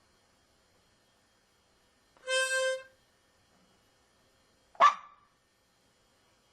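A harmonica sounds one steady note for under a second, about two seconds in. Near the five-second mark a dog gives a single short bark in reaction to it.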